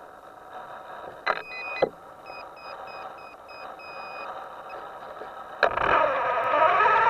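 A row of about six short electronic beeps, the last one longer, after two sharp clicks, over a steady background hum; near the end a loud noisy sound starts suddenly.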